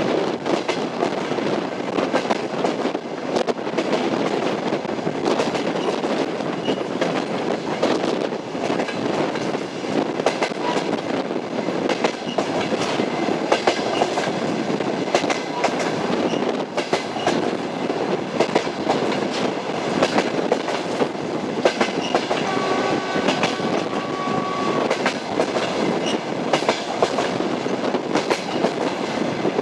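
Train wheels clattering over the rails in a steady rumble, with frequent sharp clacks. A faint steady whine sounds for about two seconds about three-quarters of the way through.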